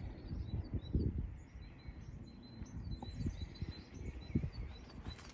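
Small songbirds chirping and singing, many short quick notes repeating throughout, over a low, uneven rumbling noise.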